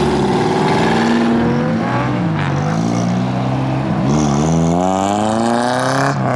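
Car engine revving: the pitch eases down, dips again about four seconds in, then climbs steadily for about two seconds to high revs and drops off suddenly near the end.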